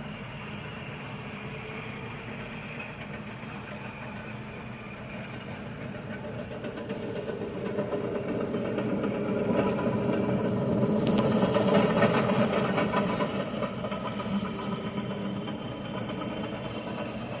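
Heavy diesel earthmoving machinery running. It grows louder from about six seconds in to a peak around twelve seconds, then eases off. There are a few sharp clicks near the loudest point.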